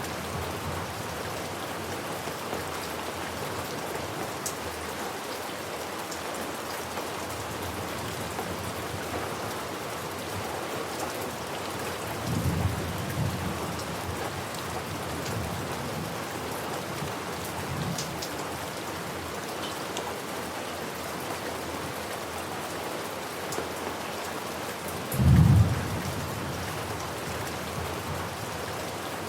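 Steady heavy rain falling on a surface, with thunder rumbling twice: a softer roll about twelve seconds in and a louder, short one near twenty-five seconds.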